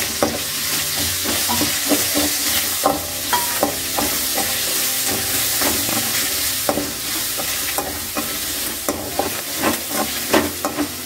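Whole shallots, garlic and ginger sizzling in hot oil in a metal kadai, stirred with a perforated metal ladle that scrapes and clicks against the pan again and again.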